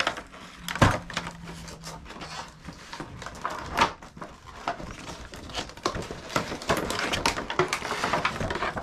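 Hands handling the pieces and packaging of a toy craft kit: rustling with several sharp clicks and knocks, the sharpest about a second in, and busier rustling in the last few seconds.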